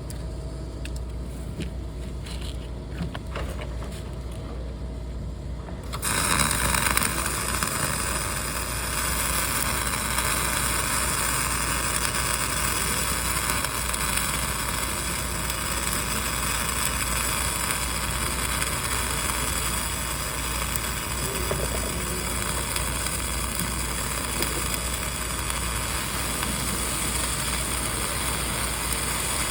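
Low steady hum, then about six seconds in a dual-shield flux-cored welding arc strikes and burns with a steady crackling hiss.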